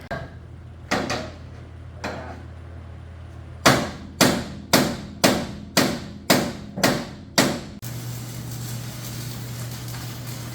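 Hammer blows on a sheet-steel floor panel as it is shaped to fit: three spaced strikes, then a quicker run of eight ringing strikes about two a second. A steady low hum runs underneath.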